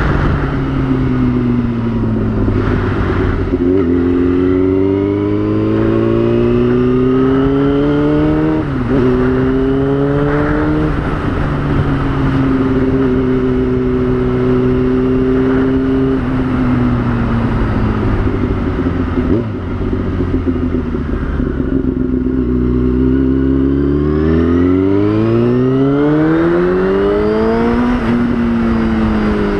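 2003 Yamaha YZF-R6 (RJ05) 600 cc inline-four engine on the move. The pitch climbs under throttle and drops sharply at upshifts about 4, 9 and 11 seconds in, then holds steady for a few seconds. It falls as the bike slows, then climbs hard again, with another shift near the end.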